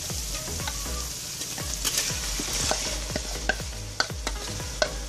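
Oil and tomato masala sizzling steadily in a non-stick pot, with scattered small pops and spatters. Near the end, yogurt-marinated chicken pieces are tipped into the hot masala.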